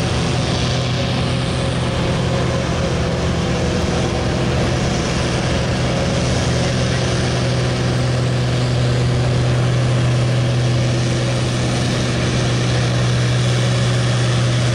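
Allis-Chalmers 200 farm tractor's diesel engine running hard and steady under load while pulling the weight sled down the track.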